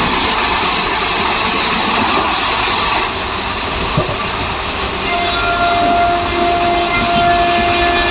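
Passenger train running at speed, heard from an open coach doorway: a loud steady rush of wheel, rail and wind noise. A steady high tone comes in about five seconds in and holds.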